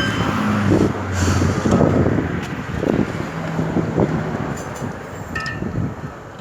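A motor vehicle's engine running, with a low hum that shifts in pitch and level.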